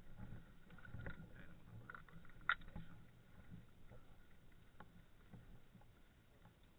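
Faint rustling and scattered light clicks, with one sharper click about two and a half seconds in.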